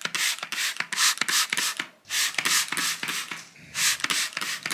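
Rapid rubbing strokes, a surface being scrubbed, in several quick runs with short pauses between them.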